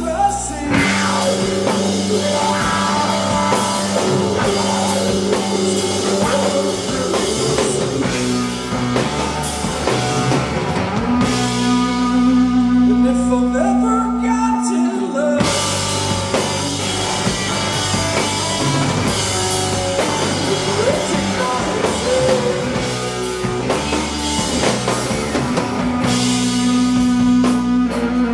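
Rock band playing live, with drum kit and guitars over held chords. About eleven seconds in the cymbals drop away for a few seconds, leaving sustained chords, then the full band comes back in.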